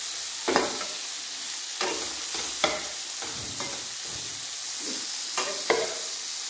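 Stuffed okra sizzling as it fries in mustard oil in a coated frying pan, with a spatula scraping and turning the pods in short strokes every second or so.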